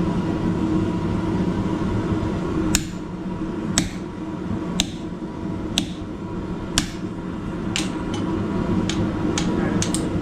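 Hammer blows on hot steel on an anvil, straightening a bent holdfast: single sharp strikes about once a second starting about three seconds in, coming quicker near the end, over a steady hum.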